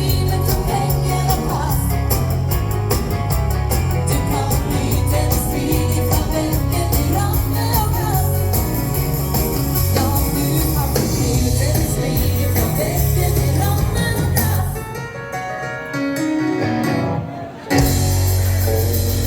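Live dance band playing an up-tempo rock'n'roll/bugg number with a steady bass and drums. A bit after the middle the bass and drums drop out for a couple of seconds, leaving a lighter line on its own, and then the full band comes back in.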